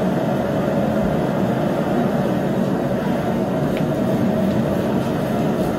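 Forge running with a steady, even rushing noise while a steel bar heats for twisting.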